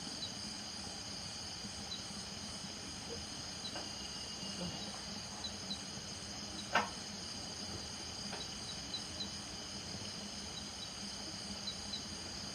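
Night chorus of crickets and frogs from marshy countryside: a steady high-pitched insect trill with short, high chirps dotted through it. A single sharp click sounds about seven seconds in, with fainter ticks around four and eight seconds in.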